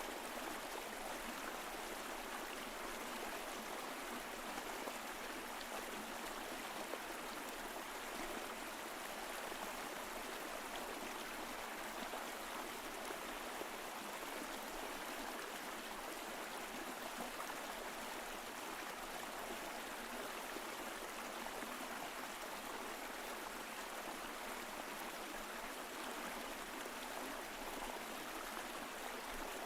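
Mountain stream flowing and gurgling over rocks, a steady, even rush of water.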